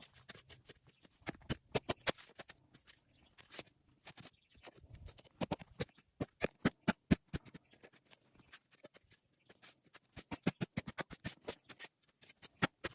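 Hand tools working the ground in yard cleanup: a rapid, irregular series of short scrapes and knocks.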